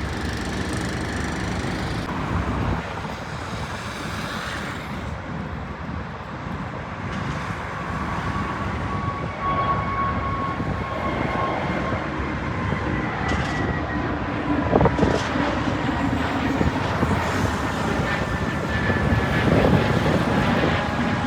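Jet airliner engines: a steady rumble with a whine whose pitch slowly falls.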